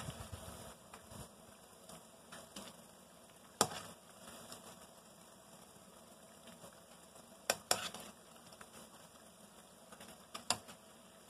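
Battered cauliflower florets frying in hot oil, a steady sizzle. A metal slotted spoon and tongs stir the pieces and knock against the pan in sharp clicks: once about a third of the way in, twice close together past the middle, and twice more near the end.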